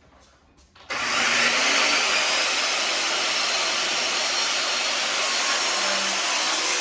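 An electric power tool or shop machine is switched on about a second in and runs steadily with a loud, even rushing noise.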